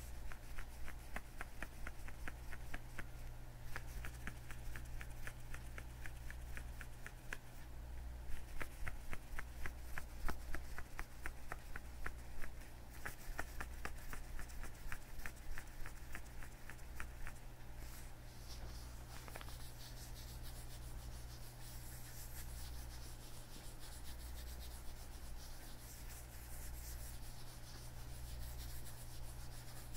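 Leather gloves on hands creaking and rubbing close to the microphone: a dense run of small crackling creaks, giving way a little past halfway to a smoother, hissing rub.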